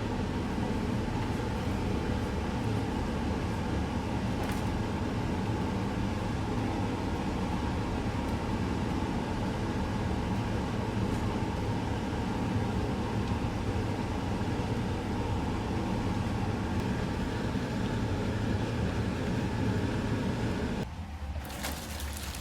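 Steady mechanical roar with a strong low hum from commercial Chinese-kitchen equipment, cutting off abruptly about 21 seconds in.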